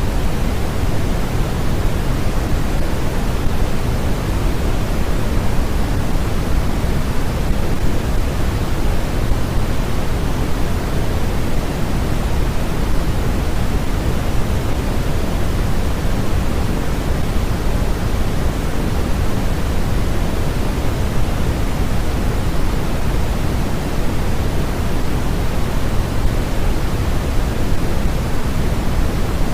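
Steady, unbroken electronic noise from a white-noise sleep track: an even hiss heavier in the low end than in the highs, with no change or events.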